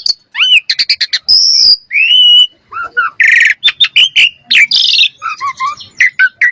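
Common myna calling in a varied run of whistled notes that glide up and down, mixed with quick clicks and a harsh rasping note a little past a third of the way in.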